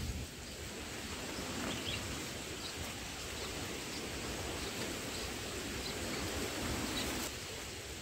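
Steady outdoor background noise with faint, short, high bird chirps scattered through it.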